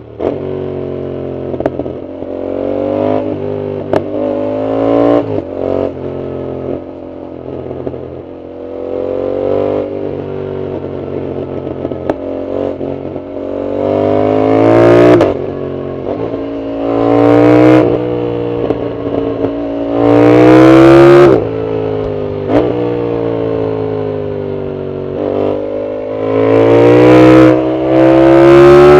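Yamaha MT-07's parallel-twin engine through a full aftermarket exhaust, pulling hard through the gears. The note climbs in pitch and drops back at each shift, several times over. The pulls get louder and higher in the second half.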